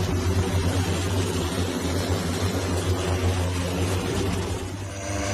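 Lift Aircraft Hexa eVTOL's electric propellers humming steadily in flight, a low drone with stacked tones that dips briefly just before the end.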